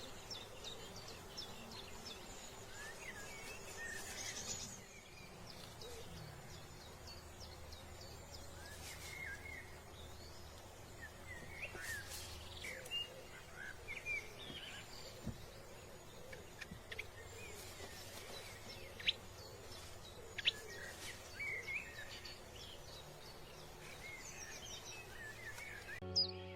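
Many small birds chirping and calling, short scattered notes over a steady low background hum, with a couple of sharp clicks in the second half. Music starts right at the end.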